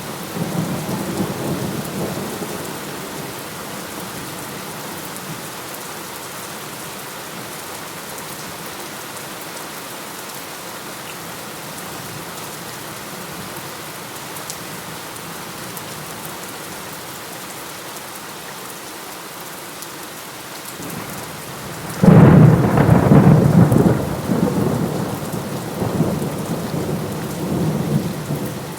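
Steady rain falling through a thunderstorm. A low rumble of thunder fades away over the first few seconds, then a sudden loud thunderclap breaks in about three-quarters of the way through and rolls on in waves.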